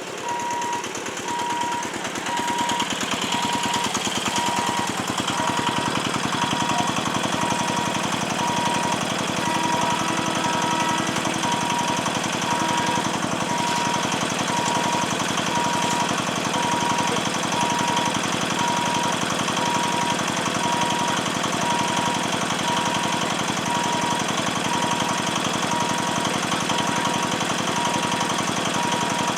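Railway level-crossing warning bell ringing continuously with a rapid, even striking, together with a steady beep repeating about one and a half times a second. These signal that the gate is closed for an approaching train.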